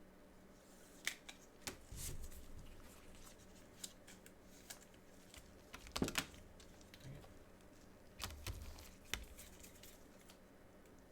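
Trading cards and their packaging being handled up close: scattered light clicks and taps with a few short crinkling rustles.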